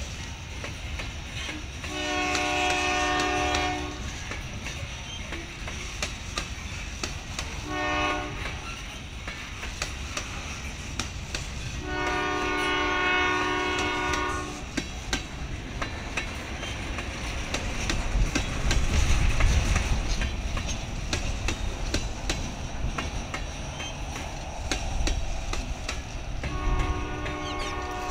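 Freight cars rolling past on steel rails: a steady rumble with wheels clicking over rail joints. A diesel locomotive horn sounds four times: a long blast, a short one, another long one, and a fourth starting near the end.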